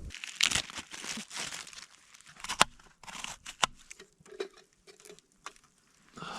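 Irregular rustling and crinkling, with scattered sharp clicks and one louder crack a little past halfway.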